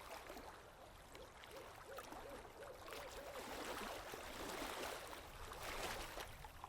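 Water lapping and gurgling against a boat's hull, faint and uneven, with small bubbling swells.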